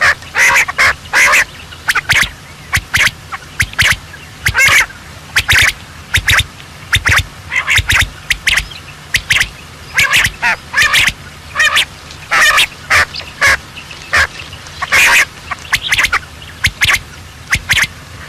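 Ducks quacking: a steady run of short, loud quacks, several a second, some overlapping.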